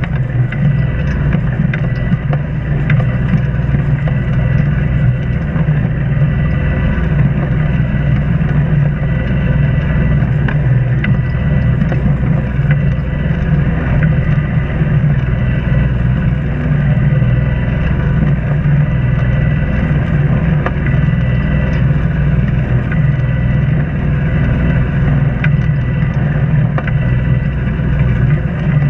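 Islander 36 sailboat's inboard engine running steadily under way, a constant low drone with no change in speed.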